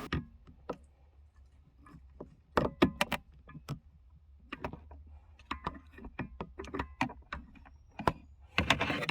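Irregular clicks, taps and knocks of hands and a screwdriver working small plastic parts and wiring while fitting a plug retainer inside a truck's center console, with a few louder knocks about a third of the way in and near the end.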